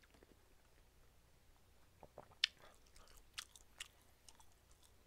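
Faint chewing and wet mouth clicks of a person eating egg soup, mostly quiet at first, with scattered sharp clicks from about two seconds in.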